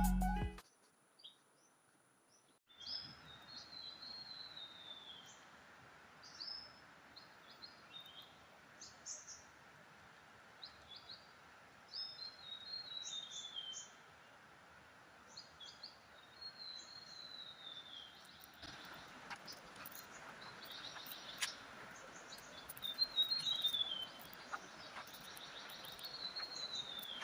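Wild birds calling: a whistled phrase that falls in pitch, repeated every few seconds, with short chirps between, over a faint steady hiss of ambience. It starts after about two and a half seconds of silence.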